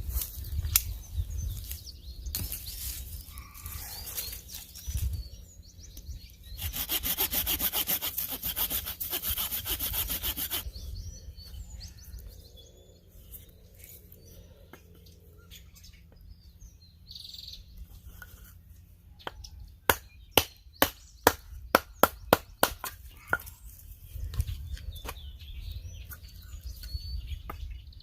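Hand saw cutting wood in quick, even strokes for about four seconds. Later comes a quick run of about a dozen sharp knocks on wood.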